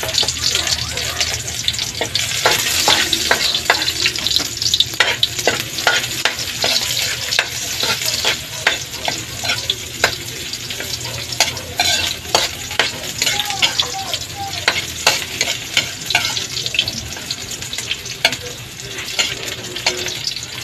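Onion and garlic sizzling in hot oil in a wok, while a metal spatula scrapes and clinks against the pan as they are stirred.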